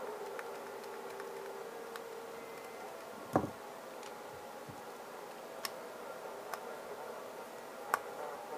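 Scattered clicks and taps from handling a CB hand microphone and its small parts, with one louder knock about three seconds in, over a faint steady hum.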